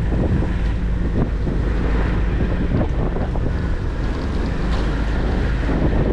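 Wind buffeting the microphone of a moving motorcycle, over the steady running of its engine and road noise.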